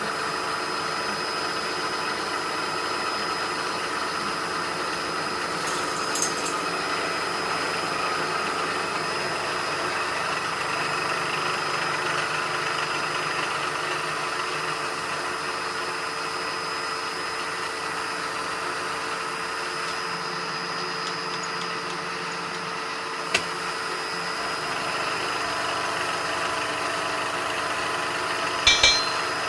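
Metal-cutting machine tool running steadily with a constant hum and whine while it takes a light five-thousandths finishing cut in oiled steel. A single sharp click comes late, and a couple of short knocks near the end.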